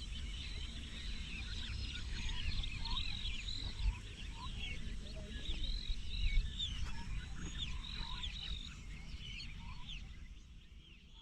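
Many small birds chirping and calling at once in a dense, overlapping chorus of short high chirps over a low wind-like rumble, fading out near the end.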